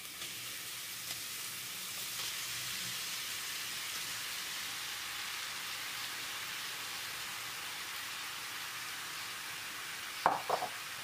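Grated zucchini frying in hot oil in a pan, a steady sizzle. A couple of sharp clinks come near the end.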